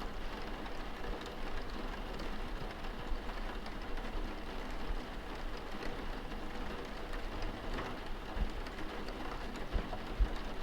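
Steady rain falling, an even hiss with a few faint scattered drips.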